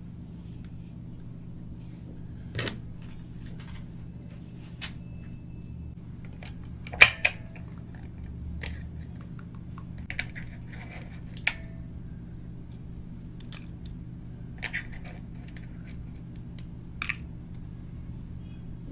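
Scattered clicks and taps of plastic toy packaging being handled, with a short crinkle, over a steady low hum; the loudest click comes about seven seconds in.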